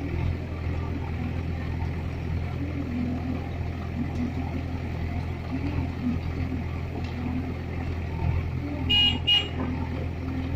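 Sonalika DI 47 RX tractor's three-cylinder diesel engine running steadily, with two short horn toots about nine seconds in.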